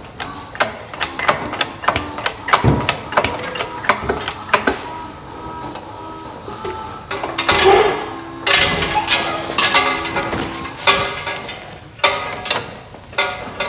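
Hand tools and metal parts clanking and clicking in an irregular series of knocks, some ringing briefly like struck steel, busiest midway through.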